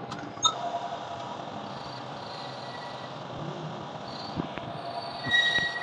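Steady workshop machine noise with a couple of light clicks near the start, then a high, steady metal-on-metal squeal begins near the end.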